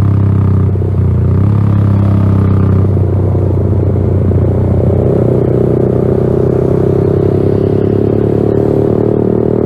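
Yamaha XSR 155's single-cylinder engine running through a LeoVince GP Corsa Evo aftermarket exhaust. The note changes pitch briefly a couple of times in the first seconds, then holds steady.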